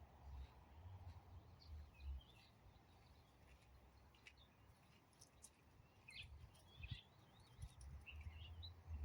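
Faint bird chirps and warbling calls, scattered and short, over a low uneven rumble.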